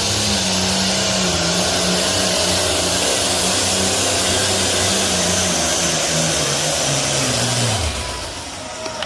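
Pulling tractor's engine running flat out under load, its pitch wavering and slowly sagging, then falling away about eight seconds in as the engine is throttled back at the end of the pull.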